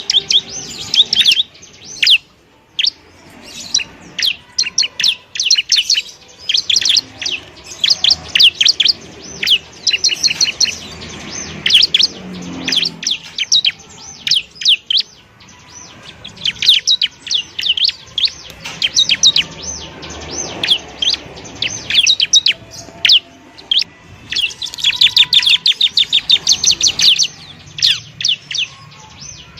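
Bar-winged prinia (ciblek) singing: loud, rapid runs of high chirps in phrases of a second or two, separated by short pauses.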